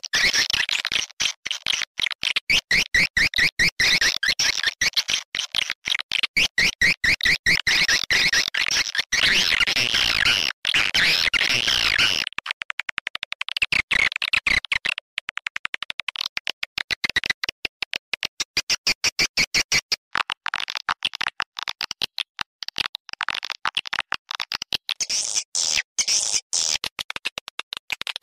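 Recorded swiftlet lure call played through a speaker: dense, rapid, repeated twittering chirps with a high, buzzy edge. About twelve seconds in the lower notes drop away and the calls go thinner and higher, with brighter chirps near the end.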